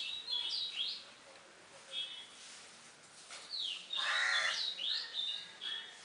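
Wild birds calling: quick whistled chirps that sweep up and down in pitch, in short clusters with gaps between, and a louder, lower call about four seconds in.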